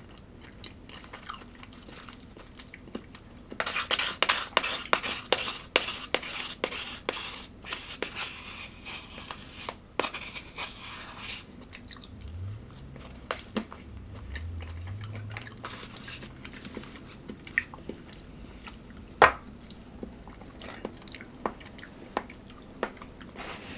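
A person chewing crunchy food close to the microphone: a dense run of crisp crunches from about four seconds in until about eleven seconds, then softer, sparser chewing with one sharp click later on.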